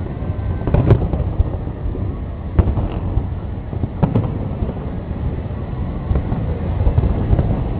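Aerial firework shells bursting over a continuous low rumble of further bursts, with sharp booms about a second in, at about two and a half seconds, and about four seconds in.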